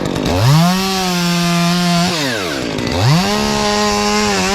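Two-stroke gas chainsaw revved to full throttle twice, each time for about two seconds with the pitch steady at the top, cutting wood, and dropping back toward idle in between.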